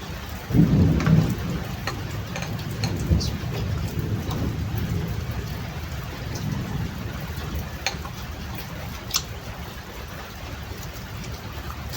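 Steady rain falling, with a loud low rumble about half a second in and a few sharp clicks scattered through.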